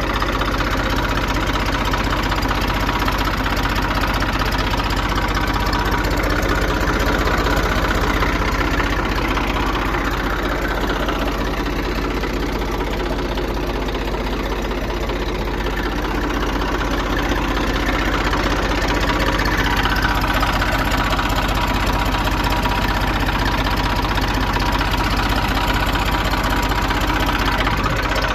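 Tractor's diesel engine running steadily, its loudness swelling slightly a couple of times.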